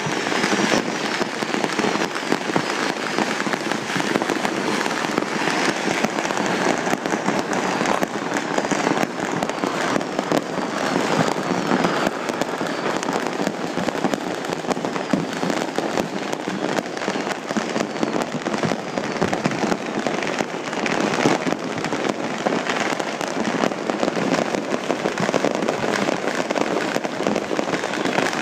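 Fireworks crackling densely and without a break: a rapid, continuous stream of small bangs and pops at a steady level.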